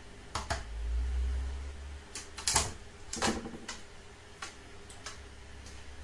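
Irregular light knocks and clicks, about a dozen scattered over several seconds, the loudest pair about two and a half and three and a quarter seconds in, over a faint low rumble.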